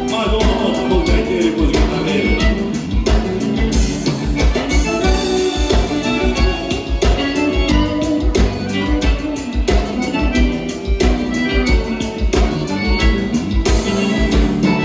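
Live gaúcho dance-band music, accordion-led, with a steady bass-and-drum beat.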